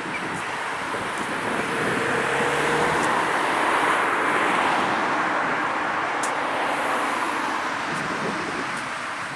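A road vehicle passing by: a rush of tyre and engine noise that swells to its loudest about four seconds in, then slowly fades.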